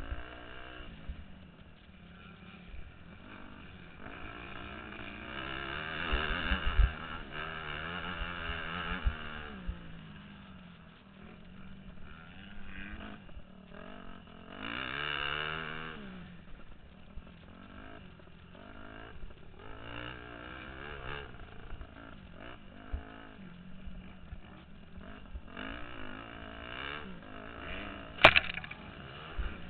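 Motocross dirt bike engine revving up and falling back over and over as it is ridden around the track, heard from the rider's helmet camera. There are louder stretches of hard revving several times, and one sharp knock near the end.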